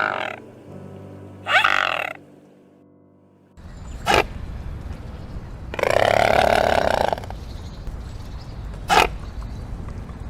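An animal calling in short and long guttural calls. Two brief calls come over a soft steady tone, then after a short pause a sharp short call, a loud call lasting over a second, and another short call.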